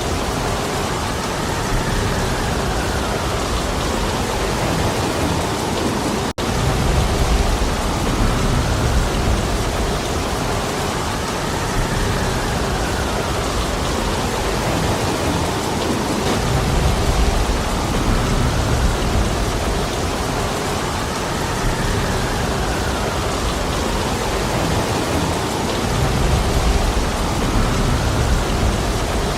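Heavy rain falling steadily, with a low rumble that swells and fades. The sound cuts out for an instant about six seconds in.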